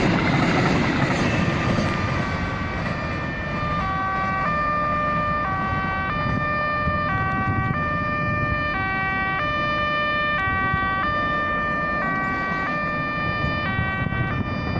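Railway level-crossing warning alarm sounding a steady electronic two-tone alternation, switching pitch about every half second. Under it, the rumble of a passing train fades away over the first couple of seconds.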